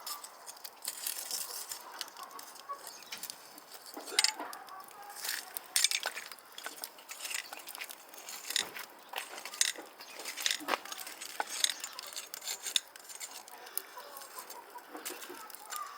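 Chickens clucking, with frequent sharp crackles and pops throughout.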